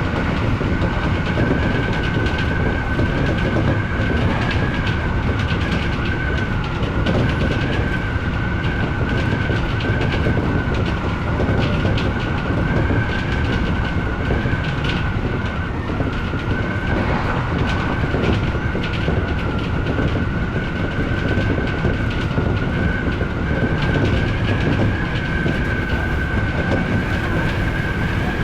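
Odakyu Enoshima Line electric train running along the track, heard from inside the leading car: a steady rumble of wheels on rail, with a high, steady whine that wavers slightly and holds throughout.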